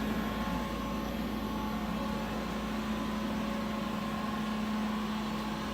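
Steady machinery hum with a constant low tone and a fainter higher tone, from the powered-up shop equipment around a CNC router.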